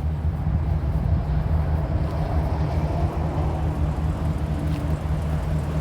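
Chevrolet Silverado 2500HD's 6.0-litre gasoline V8 idling with a steady low rumble.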